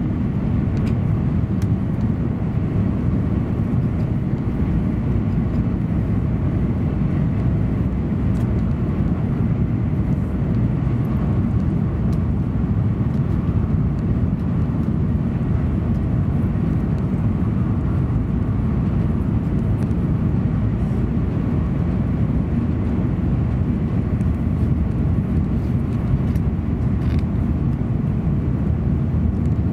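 Steady low rumble inside the passenger car of a JR Central N700 Series Shinkansen running between stations.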